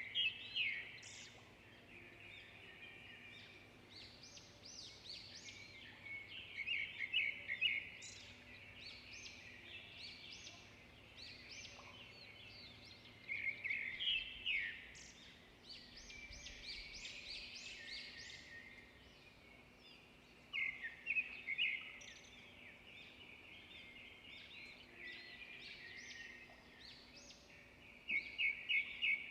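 Songbirds singing. A loud burst of rapid notes comes back about every seven seconds, with softer chirps and trills in between.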